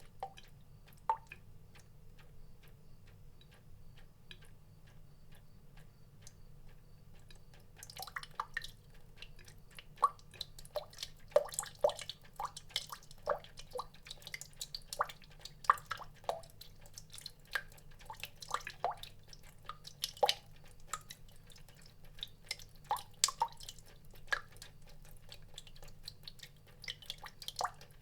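Water drops dripping, each a short pitched drip, falling sparsely at first and then much thicker and faster from about eight seconds in. A faint steady low hum runs underneath.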